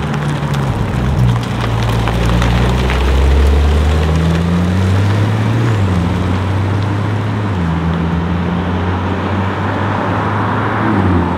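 Porsche 991 GT2 RS's twin-turbocharged flat-six accelerating away, its engine note jumping in pitch several times as it shifts through the gears. A rush of noise swells near the end.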